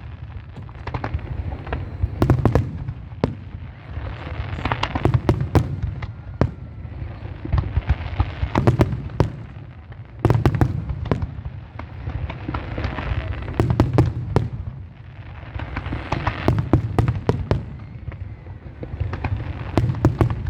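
Fireworks display: aerial shells bursting in quick clusters of sharp bangs every two or three seconds, over a steady low rumble of booms.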